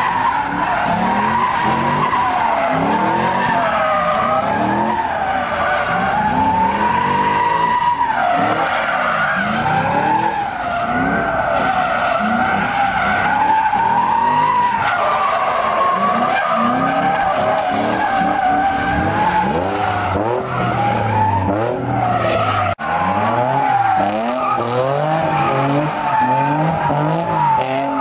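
Car tires screeching without pause during sideshow donuts, the squeal wavering in pitch, while the engine revs up and down over and over. The sound cuts out for an instant about two-thirds through.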